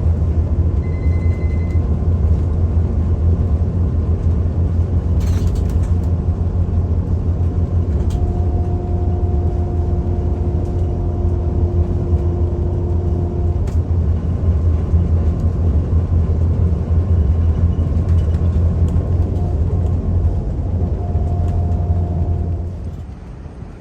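Steady low drone of a vehicle's engine and road noise while cruising on the highway, cutting off abruptly near the end.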